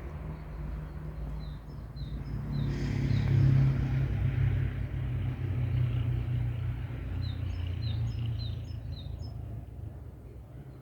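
A small bird chirping, two runs of short, high, falling notes, over a low rumble that swells a few seconds in and fades toward the end.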